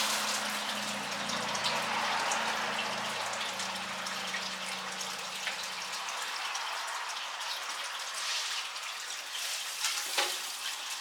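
Electric hair clippers humming for about the first six seconds, then going quiet, over a steady rain-like hiss.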